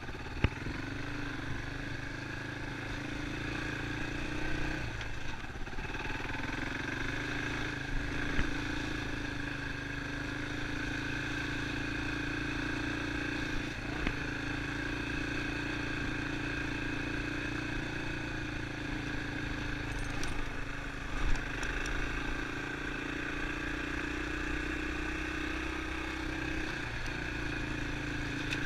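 Yamaha Serow single-cylinder four-stroke enduro motorcycle engine running steadily, its pitch rising and falling slightly, with a few short knocks and clatters along the way.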